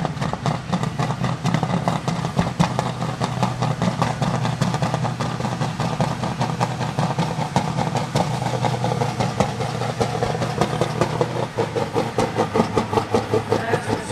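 Super stock pulling tractor's engine running hard at high power under load during a pull, a loud, steady, rapid pulsing.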